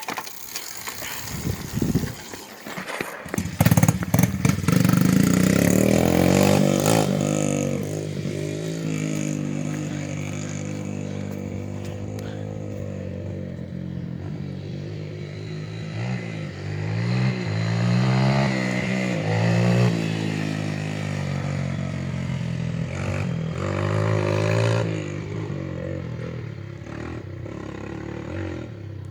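Small dirt bike engine being ridden, its pitch climbing and dropping several times with the throttle, loudest about four to seven seconds in. The first few seconds hold scraping and clatter before the engine comes in.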